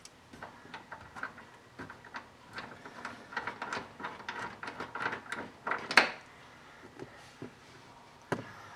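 Irregular clicks and knocks of hand tools working on the door hinge bolts, the loudest knock about six seconds in, then quiet apart from one more click near the end.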